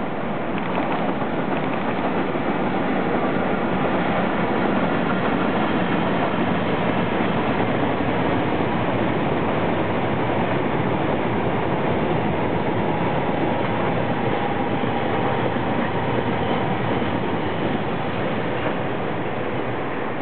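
Freight train of tank wagons hauled by two EF64 electric locomotives passing, its wheels running on the rails in a steady, loud noise that builds over the first second and eases slightly near the end.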